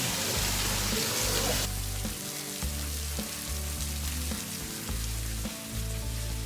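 Rushing waterfall noise over background music with a pulsing bass line; the water noise drops away abruptly a little under two seconds in, leaving the music over a fainter hiss.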